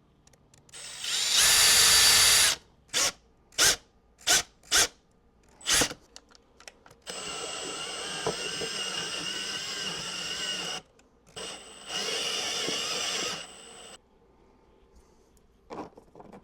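Power drill cutting a mounting hole for a voltmeter panel in a plastic equipment case: one loud run about a second in, five quick trigger pulls, then two longer, quieter runs with a steady high whine.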